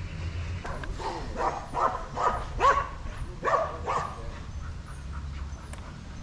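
Dog barking: a quick series of about seven barks between about one and four seconds in, then quieter.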